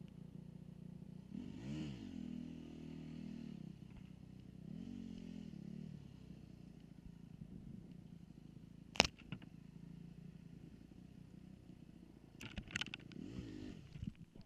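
Dirt bike engine revving up and dropping back three times, about two seconds in, five seconds in and near the end, over a steady low running note. There is a sharp knock about nine seconds in and a quick clatter of knocks near the end.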